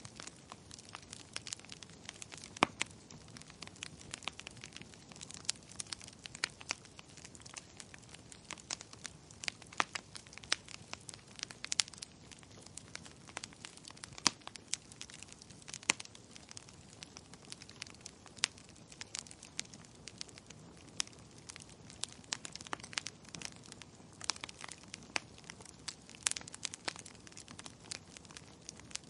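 Wood fire crackling in a fireplace: irregular sharp pops and snaps, several a second and a few much louder than the rest, over a soft steady hiss.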